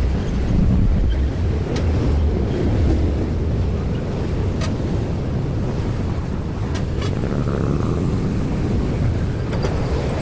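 Steady low rumble of vehicles passing a railway level crossing, with a few faint scattered clicks.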